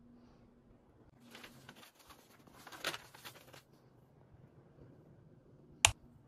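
Rustling of a paper instruction sheet being handled for about two seconds, then a single sharp click near the end.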